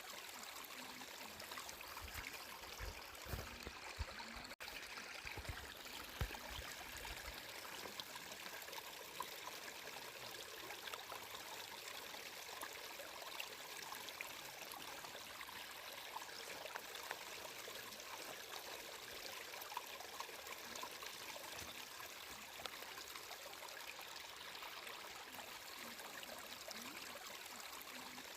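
Water flowing in a stream, a steady rushing trickle, with a few soft low thuds in the first several seconds.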